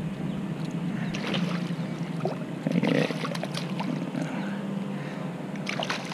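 Boat motor running steadily with a low hum, with a few scattered clicks and knocks over it.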